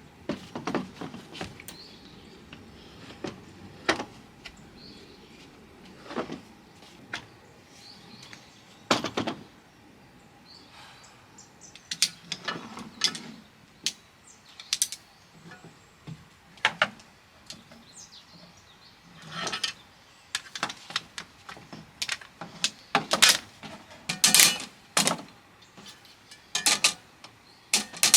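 Irregular clicks, knocks and rattles of hard objects being handled, some in quick clusters, with faint bird chirps behind them.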